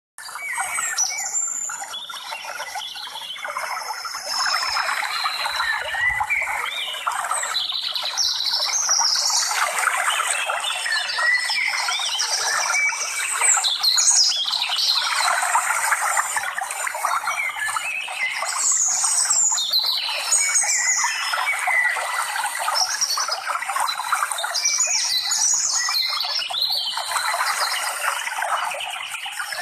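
Many birds chirping and squawking at once, a dense, unbroken chatter.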